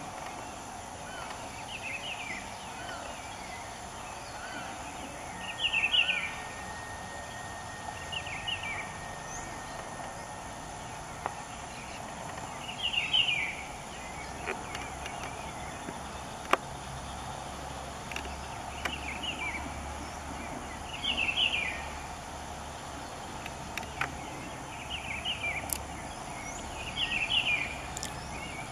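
Wild birds chirping in short clusters every few seconds over a steady background drone of natural ambience.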